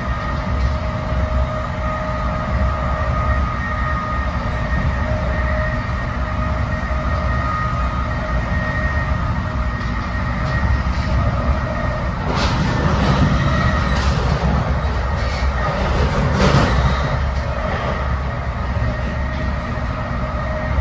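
Inside an NJ Transit Multilevel passenger coach running at speed: a steady rumble with a few held whining tones. About twelve seconds in it grows louder for several seconds, with a few sharp clacks, then settles back.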